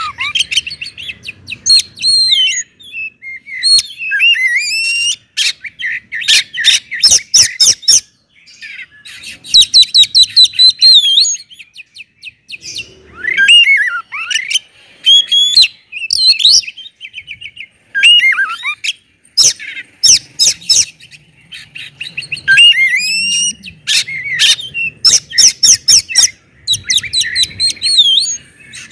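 Oriental magpie-robin (kacer) singing loudly. Its whistled phrases slide up and down in pitch, mixed with runs of sharp clicking notes, in bursts separated by short pauses.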